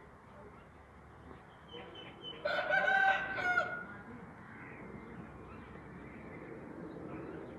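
One loud bird call lasting about a second, starting about two and a half seconds in, over faint steady background noise.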